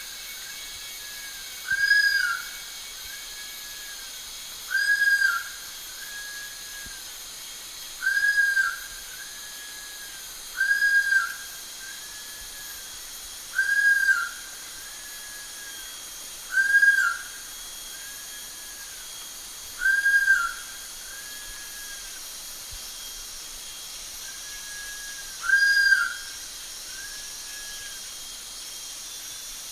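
Giant pitta calling: mellow whistled notes that rise and fall, each a loud note followed about a second later by a fainter one, the pair repeated about every three seconds over a steady background hiss.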